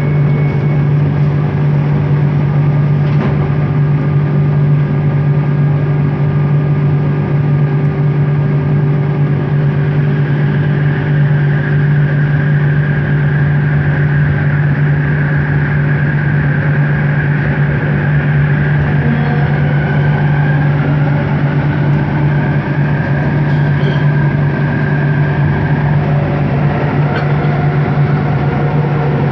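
Bombardier Innovia ART 200 light-metro train running, heard from inside the car: a steady low hum from its linear induction motor drive, with a higher whine that comes in about ten seconds in and wavers.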